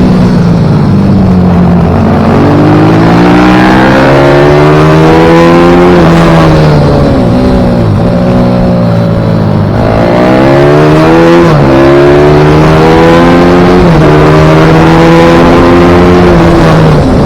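Minigp pit bike engine at racing speed, revving up again and again with sudden pitch drops at gear changes, and a longer fall and climb in the middle as the bike slows for a corner and accelerates out.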